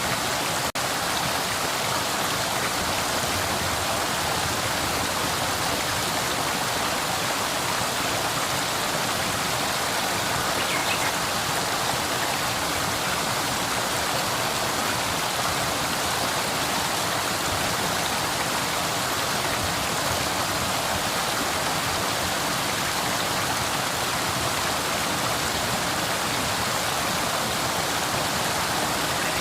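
Flowing river: a steady, even rush of moving water.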